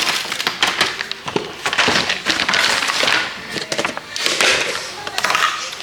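Frozen berries and fruit pieces being shaken and poured out, clattering and crackling in uneven bursts with the rustle of the packet.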